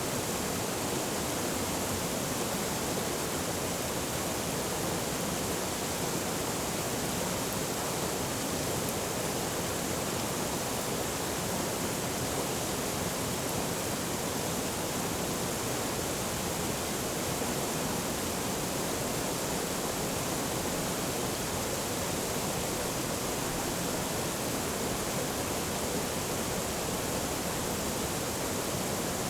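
Forest stream flowing, a steady, even rush of water with no breaks.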